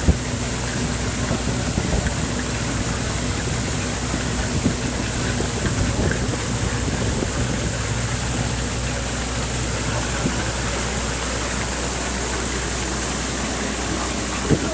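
Oyster brush washing machine running: a steady motor hum under an even rushing noise, with a few light knocks.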